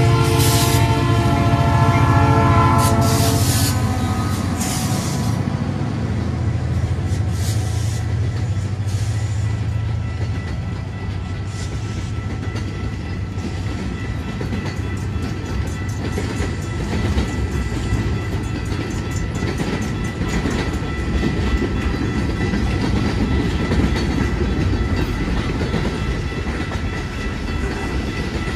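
Diesel locomotive horn sounding over the engine's low rumble as CFNR 2269 passes, the horn ending about three seconds in. Then a string of freight boxcars rolls by with wheels clacking over the rails, while the crossing's warning bell keeps up a steady high tone.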